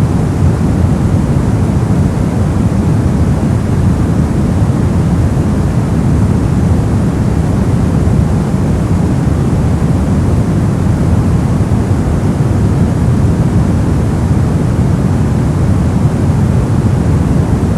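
Steady white noise for sleep masking, even and unchanging. Its weight sits low, so it sounds deep and rumbling rather than hissy.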